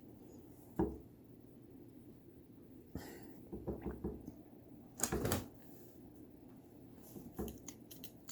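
Irregular thumps, knocks and rustles of a pet playing with toys, with the loudest thuds about a second in and around five seconds in.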